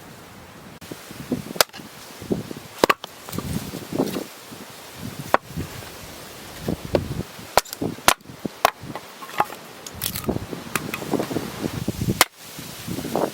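A dozen or so sharp knocks and clicks at irregular intervals, with rustling handling noise between them.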